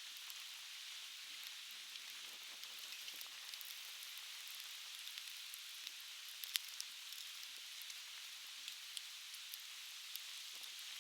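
Softwood fire crackling with scattered sharp pops, the loudest about six and a half seconds in, over the steady hiss of a river.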